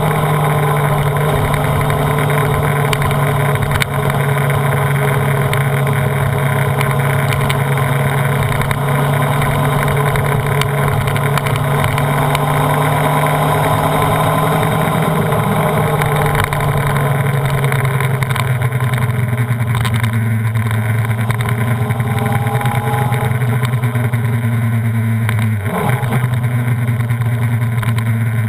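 Honda CBR929RR's inline-four engine running hard at speed on a race track, recorded from the bike's tail, its pitch sinking slowly, with a brief break in the note near the end.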